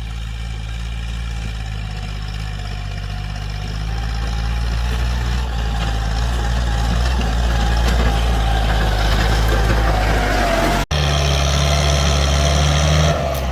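Tractor engine running steadily, with a faint whine rising slowly in pitch. About eleven seconds in the sound cuts abruptly to another engine running.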